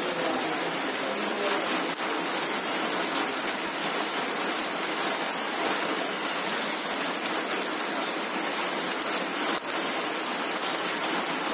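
Heavy rain falling steadily, an even hiss, with two faint clicks about two seconds in and near the end.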